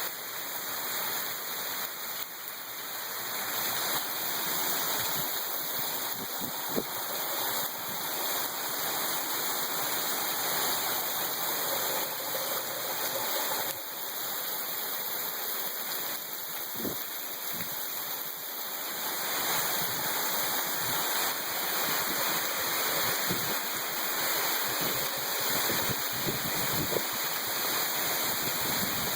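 Heavy rain falling steadily, with scattered soft drop knocks.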